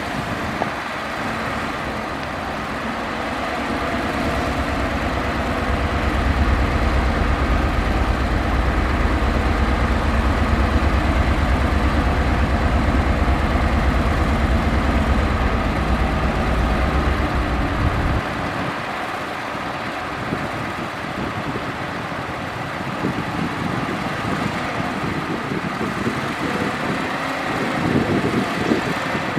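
Heavy earthmoving machinery's diesel engine running, with a deep rumble that builds over the first few seconds and drops away sharply about eighteen seconds in. Near the end there is an uneven low rumbling.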